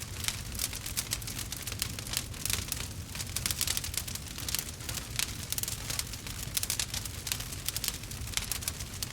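Burning wood fire crackling and popping: a dense, irregular run of small sharp pops over a low, steady rumble.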